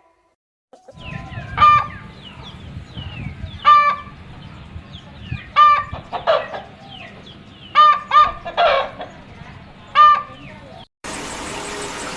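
Chickens clucking: short, sharp calls about every two seconds, with faint high peeps between them. Near the end the sound cuts to a steady hiss.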